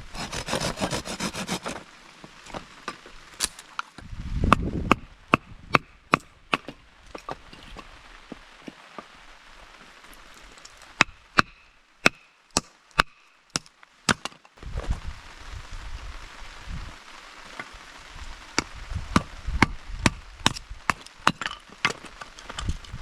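Chopping: a long series of sharp, irregular knocks, some in quick runs, with a low rumbling noise coming and going underneath.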